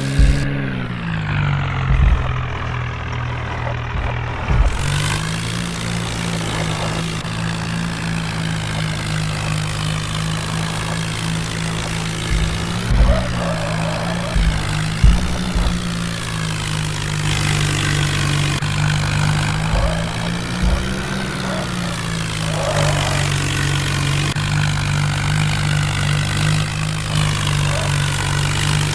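Tractor engine running steadily, its pitch dropping at the start and picking up again about five seconds in, with a few low thumps.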